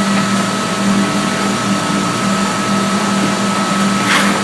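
Jon Kaase 520 cubic-inch big-block V8 running under load on an engine dyno, a loud steady drone at an even pitch. A short burst of noise comes near the end.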